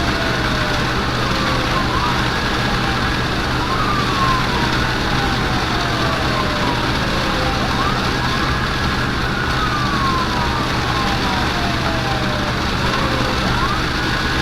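Emergency vehicle siren on a wail, each cycle rising, holding briefly and then sliding slowly down, repeating about every six seconds, over a steady low hum.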